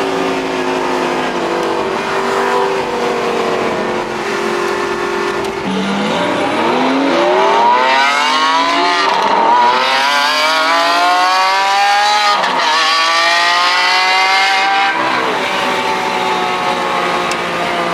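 Supercar engine accelerating hard at full throttle, its pitch climbing steeply and dropping at two quick upshifts before it eases off near the end. Before the pull it runs at a steady cruise.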